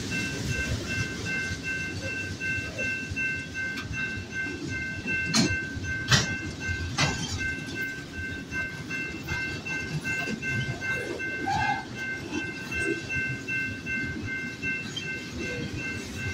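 CPKC manifest freight train's cars rolling past, wheels rumbling and clacking over the rail joints, with a few sharp clacks about five to seven seconds in. The grade-crossing warning bell rings rapidly and steadily over it.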